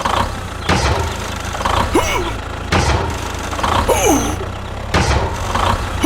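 Mini tractor's small engine running steadily, with several sharp knocks and short, gliding voice-like calls over it.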